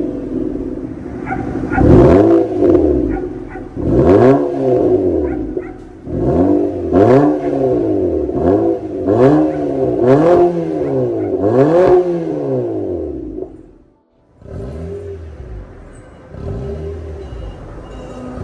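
Nissan Sentra's HR16DE 1.6-litre four-cylinder free-revved through an MS-R valved cat-back exhaust, in a run of about eight quick blips that rise and fall in pitch. Near the end it drops almost to nothing, then comes a few lighter, quieter revs.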